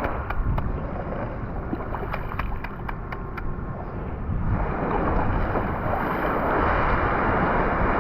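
Wind buffeting the microphone over the wash of waves on the beach, growing fuller about halfway through, with a few faint clicks early in.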